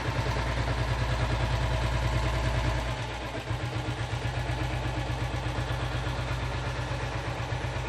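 Royal Enfield Taurus diesel Bullet's single-cylinder diesel engine idling with a steady beat just after being started, a little louder for the first three seconds before settling.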